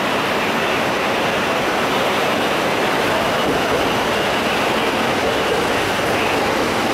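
E259 series electric train rolling in along the platform, a steady rush of wheel and running noise as the cars pass close by.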